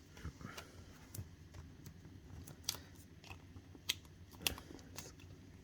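Scattered small clicks and ticks of hands peeling Stampin' Up foam Dimensionals off their backing sheet and pressing them onto a cardstock panel, about half a dozen sharper ones spread irregularly over a few seconds.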